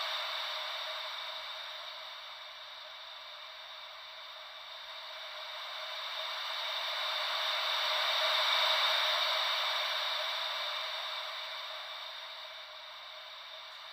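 Gentle ocean-wave white noise: a soft hiss with no bass that slowly swells and fades like a wave washing in. It ebbs at first, rises to one peak about two-thirds of the way through, then ebbs again near the end.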